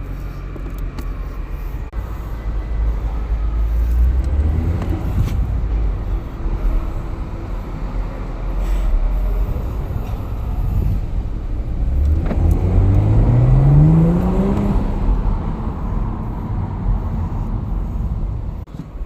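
BMW 440i's turbocharged straight-six engine and exhaust under hard acceleration. The engine runs with a deep rumble, and about two-thirds of the way through its note climbs steeply before dropping back.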